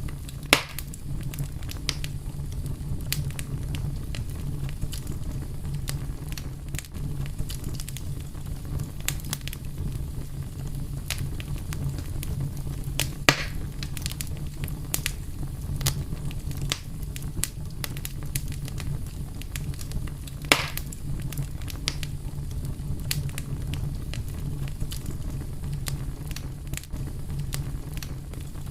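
Fire crackling steadily over a low rumble, with frequent small clicks and three louder sharp pops: one right at the start, one about 13 seconds in and one about 20 seconds in.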